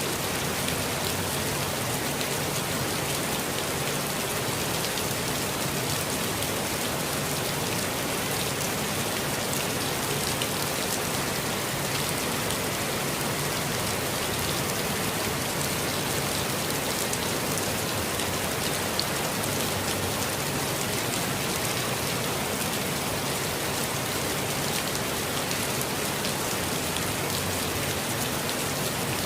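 Steady rainfall, a dense even hiss of drops pattering on leaves and ground, with no let-up or change.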